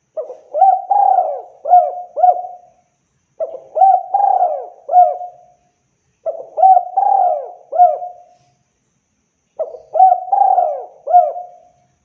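Spotted dove (tekukur) cooing: four phrases of several throaty coos each, one about every three seconds.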